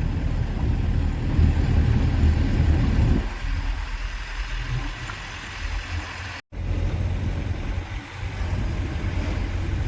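A hired car running on the road, heard from inside the cabin: a steady low engine and road rumble. The sound cuts out completely for an instant about six and a half seconds in.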